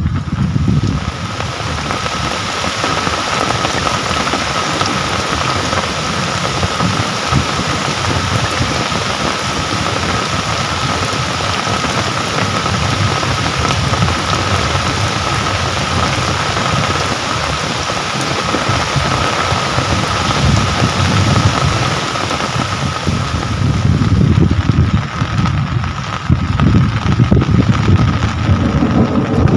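Steady rain falling in a dense, even hiss, with a faint steady high tone under it. A low rumble swells up near the end.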